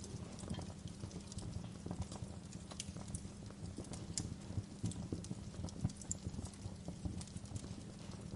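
Wood fire crackling, with irregular pops and snaps over a steady low rumble.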